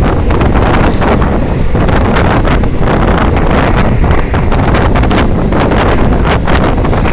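Heavy wind buffeting the microphone, a loud steady rumble with crackling.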